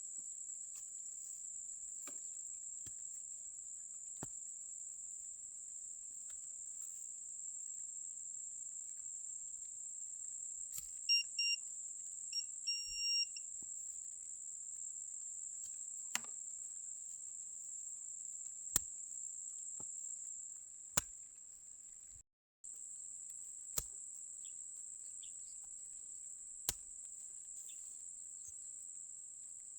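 A steady high insect chorus, like crickets, with scattered sharp knocks. About 11 seconds in comes a short run of electronic beeps, the kind of signal a metal detector gives over a buried target.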